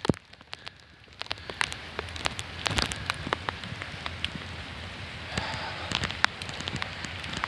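Steady rain falling, with many scattered sharp clicks of drops striking close to the microphone.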